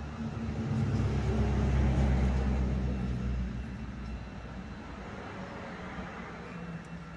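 Low engine rumble of something passing by: it swells to a peak about two seconds in, then fades away over the next couple of seconds.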